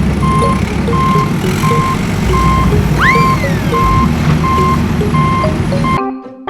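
Truck reversing alarm beeping steadily, about three beeps every two seconds, over a low engine rumble, with a single rising-then-falling whistle-like swoop about three seconds in. Near the end the sound cuts off abruptly into marimba music.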